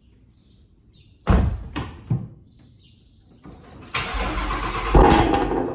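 Ford Shelby GT350R's 5.2-litre flat-plane-crank V8 cold-starting: a short crank, then it fires about four seconds in, flares loudest a second later and settles into a steady fast idle. Three sharp knocks come a couple of seconds before the start, and birds chirp faintly at first.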